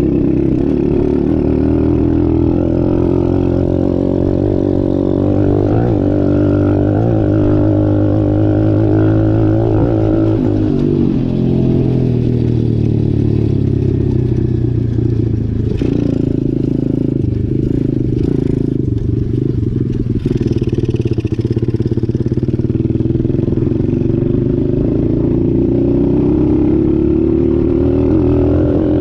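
Dirt bike engine running while being ridden, its pitch rising and falling as the throttle is worked; the pitch drops about eleven seconds in and climbs again near the end.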